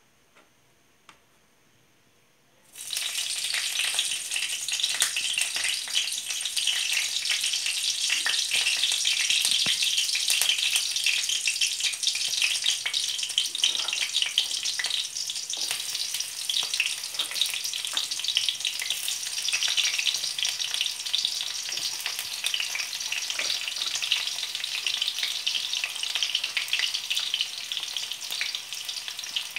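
Food frying in hot oil in a pan: after a few faint clicks, a dense crackling sizzle starts suddenly about three seconds in and carries on steadily.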